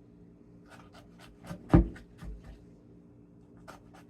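Quick scraping strokes of a kitchen utensil working the cut vegetables, about four a second in two short runs, with one heavier knock a little under two seconds in.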